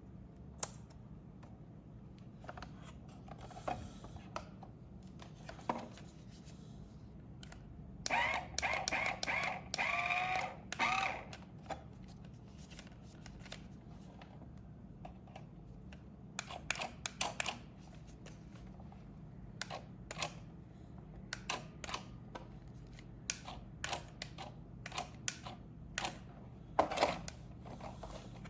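Clicks and taps of hard plastic being handled, such as RC toy cars and their packaging, over a steady low hum. About eight to eleven seconds in there is a stretch of wavering whining tones, and the clicks come thick and fast near the end.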